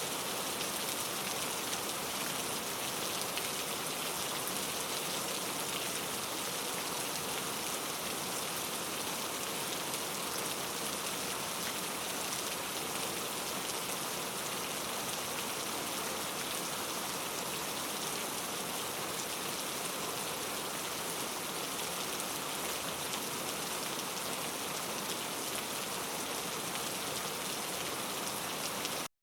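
Steady rain falling, an even hiss of many drops on a surface, breaking off to silence for an instant right at the end.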